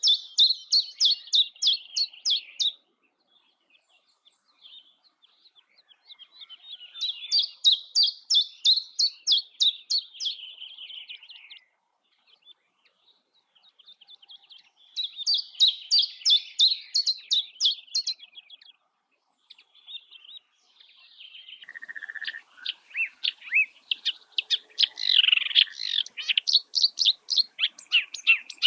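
Songbirds singing: songs of fast, high, repeated chirps, each lasting about three to four seconds, with pauses of several seconds between them. From about two-thirds of the way through, the singing becomes denser and nearly continuous.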